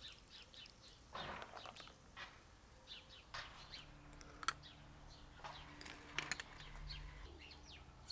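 Small birds chirping, many short quick calls and sweeping notes one after another. About halfway through, faint low held tones come in: the start of background music.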